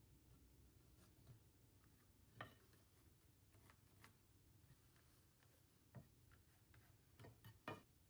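Near silence with faint, scattered light clicks and taps: a few small handling noises, the clearest about two and a half seconds in, another at six seconds, and two close together near the end.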